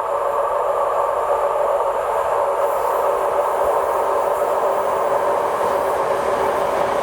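A train running past on the track, its wheels on the rails making a steady, even rolling noise.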